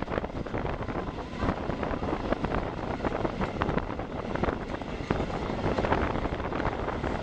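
Wind buffeting the microphone out of the window of a moving historic passenger train, over the running noise of the carriage on the track with frequent irregular clicks and knocks.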